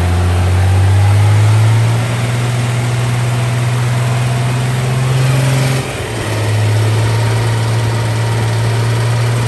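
BMW N54 straight-six engine running steadily while the car is driven, a loud even drone with a brief dip about six seconds in. Under it is the light tick the owners hear when driving, which they call more of a flutter and suspect is an exhaust leak near the manifold.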